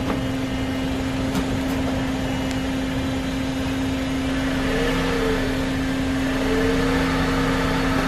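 Car engine running steadily with a constant hum as the car creeps forward onto a balloon under its front tyre. The balloon squashes without popping.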